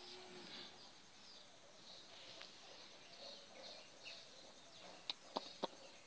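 Faint outdoor ambience with scattered distant bird chirps. A few sharp clicks come about five seconds in.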